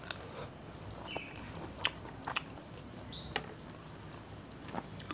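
Chewing and wet mouth sounds of someone eating creamy pasta, with several sharp clicks, the kind a metal fork makes against a small pan while scooping more.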